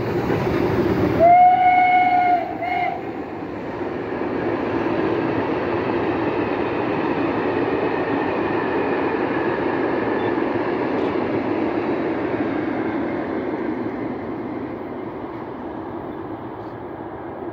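A locomotive whistle gives one blast of about a second, then a short second blast. After that, a long steam-hauled passenger train rolls past with a steady rumble of wheels and coaches, fading over the last few seconds as the last coaches go by.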